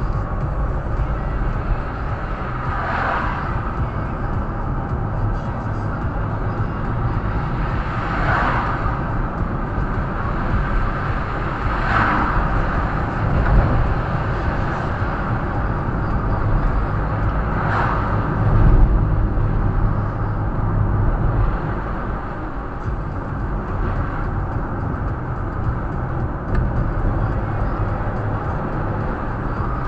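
Steady low rumble of road vehicle noise, with four brief swishes a few seconds apart.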